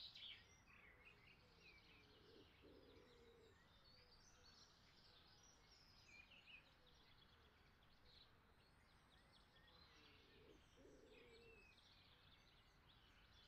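Very faint birdsong: small birds chirping and twittering, with a lower call twice.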